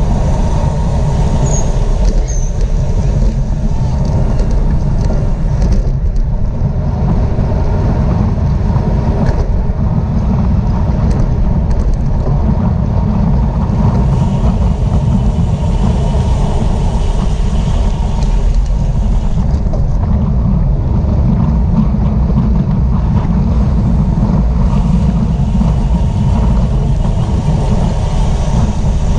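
Steady, loud wind rush buffeting the microphone of a camera riding along in a bicycle race, with the hum of the moving bike and road beneath it.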